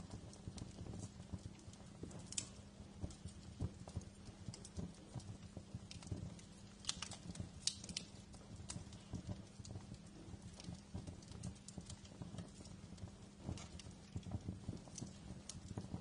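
Wood fire crackling in a fireplace: irregular sharp pops and snaps over a low steady rumble of the flames, with a few louder pops about 2, 7 and 8 seconds in.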